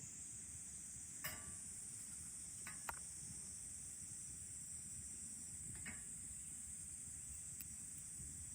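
Steady high-pitched insect drone, with a few sharp pops or crackles: one about a second in, another near three seconds and a softer one near six seconds.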